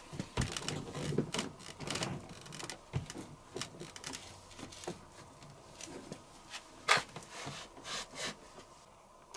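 Irregular clicks, knocks and rustling, with one sharp click about seven seconds in.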